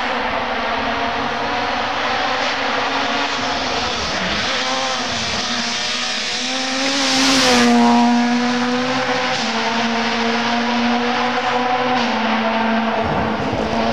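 Rally car engine running hard, its pitch dipping and climbing again several times with lifts and gear changes, getting loudest as the car passes close about seven to eight seconds in.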